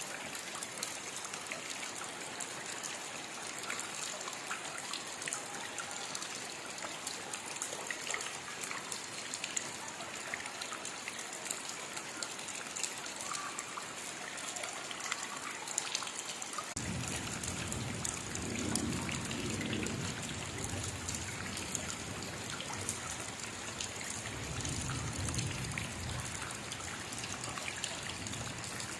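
Steady rain falling, an even hiss flecked with many small drop ticks. About two-thirds of the way in a low rumble sets in suddenly and swells twice.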